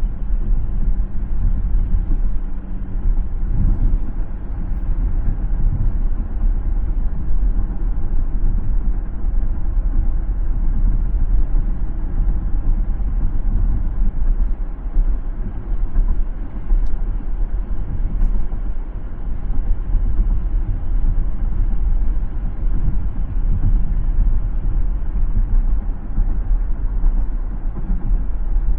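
Steady low road rumble of a car driving: tyre and engine noise running evenly, with no distinct events standing out.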